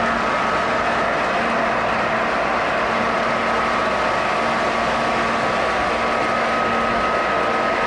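O-gauge electric model train running on its track: a steady rumble of wheels on metal rails with a thin motor whine.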